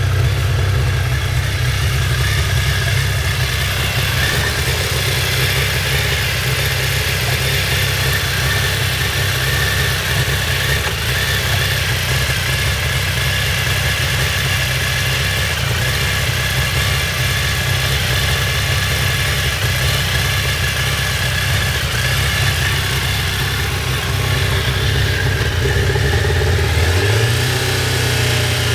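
2002 Suzuki Hayabusa's inline-four engine running steadily at a fast idle on the choke while it warms up from a cold start. The engine note shifts near the end.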